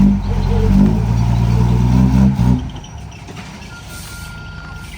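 Heavy diesel engine of earthmoving machinery running loudly, then falling much quieter about two and a half seconds in as the throttle drops or the machine pulls away.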